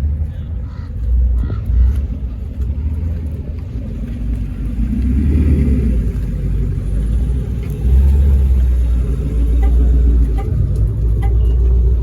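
Car engines running with a deep rumble, swelling about five seconds in and getting louder again from about eight seconds in.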